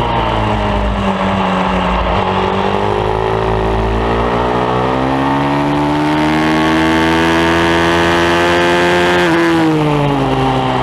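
Pit bike's single-cylinder engine on track: revs falling off throttle for about two seconds, then rising steadily under acceleration for about seven seconds, before dropping sharply as the throttle is shut about nine seconds in.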